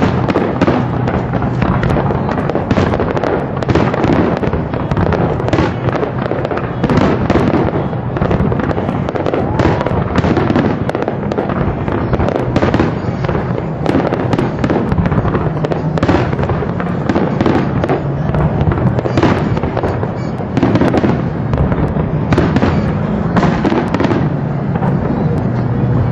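Fireworks display: aerial shells bursting in a dense, continuous run of loud bangs.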